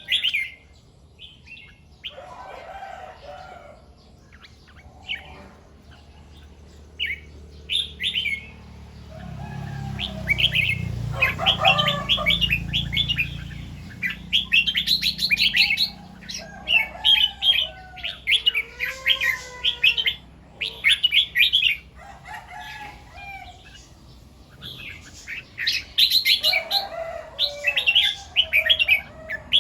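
Red-whiskered bulbuls singing in short, rapid phrases, repeated over and over with lower whistled notes mixed in. A low rumble runs underneath for several seconds near the middle.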